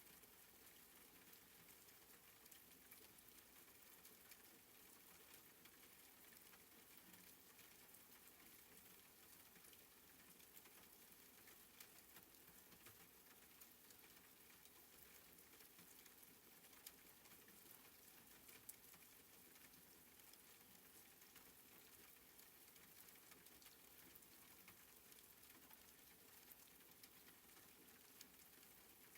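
Faint, soft rain: a steady light patter with scattered small drop ticks.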